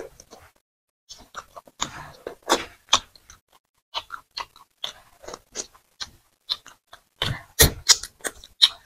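Close-miked wet chewing and lip-smacking of a person eating soft amala in black soup by hand: quick, irregular mouth clicks and smacks, with a louder cluster near the end.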